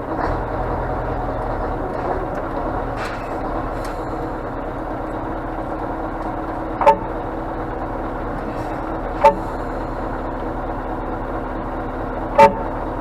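Scania truck's diesel engine running steadily, with three short, sharp beeps at uneven spacing in the second half.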